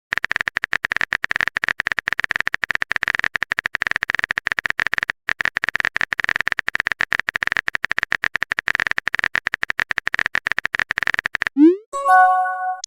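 A harsh electronic noise effect, rapidly stuttering on and off with a steady high buzz running through it, which cuts off suddenly near the end. It is followed by a short rising whoop and a few bright chime-like tones.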